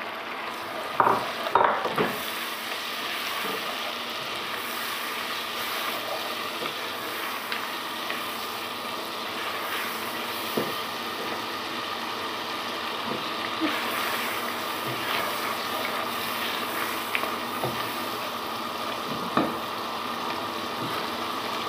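Chopped tomatoes sizzling as they fry in a pot, stirred with a spoon, with a steady sizzle throughout. A few short sharp knocks stand out, two of them between one and two seconds in.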